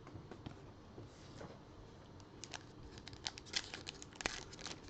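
Trading card pack wrapper crinkling and tearing as it is opened: soft scattered crackles at first, turning into a busier run of sharp crackles in the second half.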